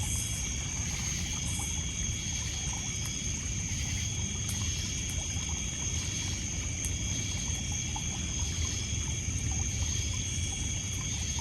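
Lakeside night ambience: a steady, high chorus of crickets and other insects over water trickling and lapping on a pebble beach. A few faint crackles come from the campfire.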